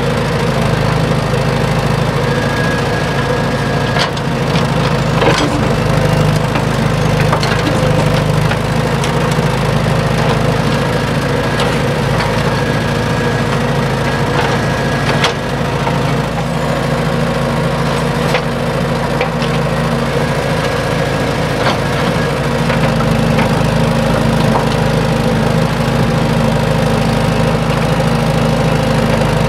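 Small engine running steadily for a miniature excavator digging sand, with a few sharp clicks and knocks over the running.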